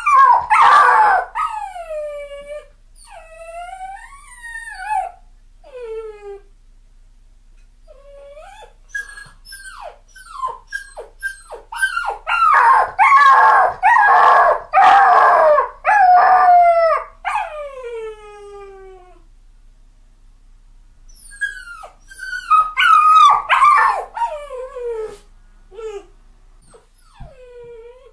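Puppy crying: repeated high whines and whimpers that slide down in pitch, mixed with short yelps, swelling into louder bouts of crying three times.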